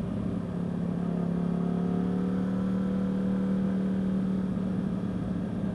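Yamaha R1 sportbike's inline-four engine running at low speed, its pitch rising a little over the first few seconds, then holding and easing slightly.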